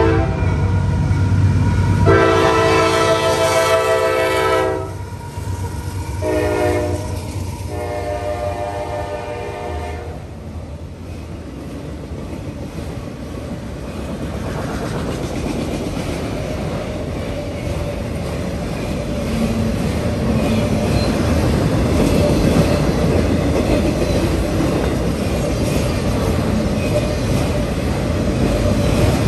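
Freight locomotive horn sounding the grade-crossing signal over the deep rumble of the diesel engines: a long blast about two seconds in, a short one, then another long one. After that come the steady rumble and clatter of CSX autorack freight cars rolling past.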